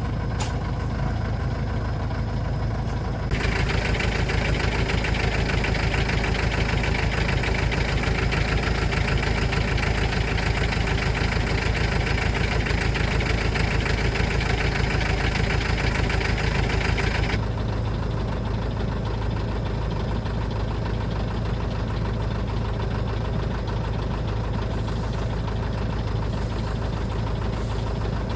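A truck's engine idling steadily with a knocking clatter. From about three seconds in, a louder hissing, whirring layer joins it, then drops away again at about seventeen seconds.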